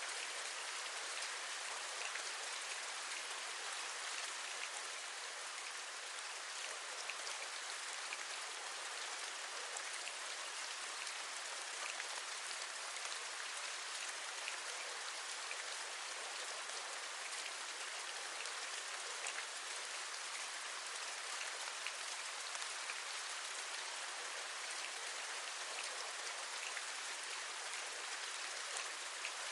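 Steady rain, with many small drop taps scattered through an even hiss.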